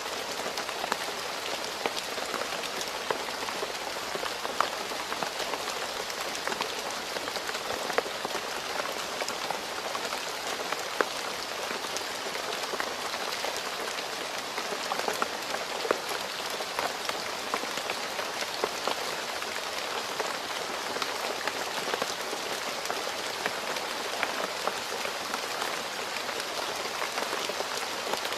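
Steady rain falling on a road: an even hiss with many scattered sharper drop splashes.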